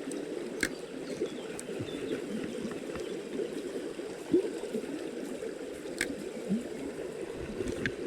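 Small mountain stream gurgling and trickling over stones, with a steady bubbling and one louder gurgle about four seconds in. A few sharp clicks sound over the water.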